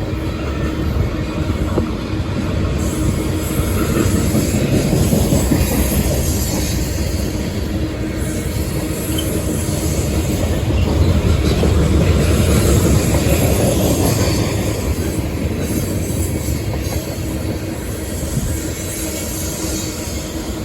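Train rolling past: a steady rumble and rattle of railcar wheels on the rails, growing a little louder about halfway through.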